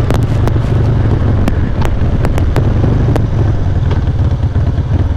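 Carbureted Harley-Davidson V-twin engine running steadily under easy cruising throttle, heard through a helmet-mounted mic with wind noise. Several sharp clicks cut through the recording.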